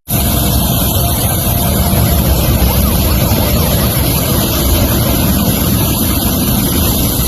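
Loud, steady rumble of vehicle engines and road noise, beginning just after a cut.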